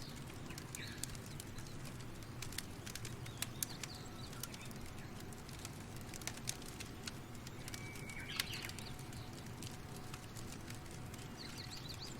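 Outdoor ambience with birds chirping a few short calls, over a steady low rumble and many small sharp clicks.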